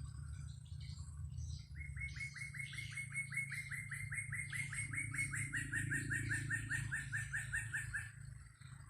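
A bird calls a long, even series of rapid repeated notes, about five a second, starting about two seconds in and stopping near the end, among scattered chirps from other birds. A steady low rumble of wind runs beneath.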